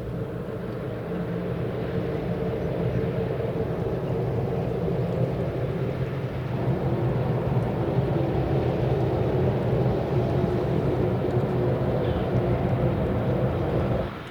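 A railway locomotive running and drawing closer, its engine and machinery sound growing louder, with a shift in pitch about halfway through; it cuts off suddenly near the end.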